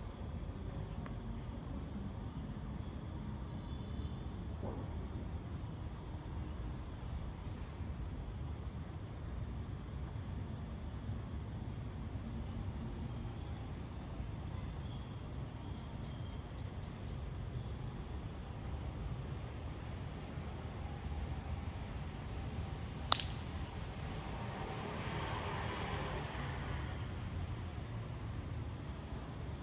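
Crickets chirping in a steady, fast-pulsing high trill over a low background rumble. A single sharp click comes about two thirds of the way through, followed by a short swell of noise.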